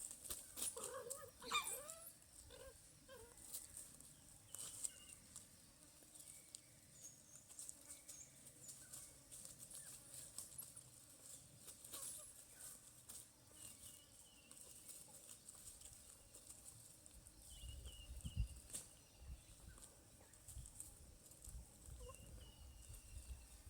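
Faint animal cries, a few short wavering calls in the first couple of seconds, then near quiet with scattered clicks and brief high chirps.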